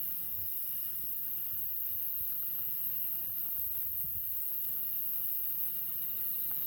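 Wood campfire burning with scattered faint crackles over a steady high-pitched hiss.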